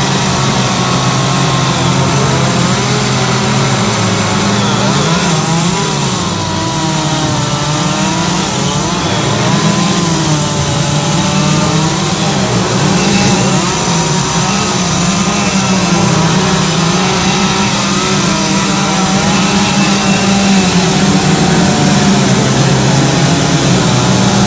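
Two-stroke chainsaws running hard while carving wood, their engine note wavering up and down as the saws are throttled and loaded in the cut.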